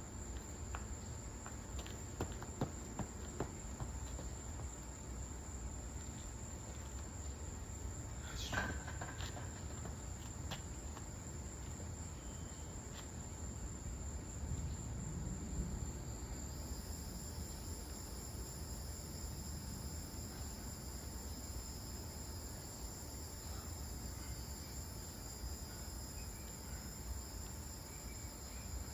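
Crickets chirping in a steady high trill, with a second insect joining in about halfway through. A few soft clicks in the first few seconds and one sharper click about eight seconds in.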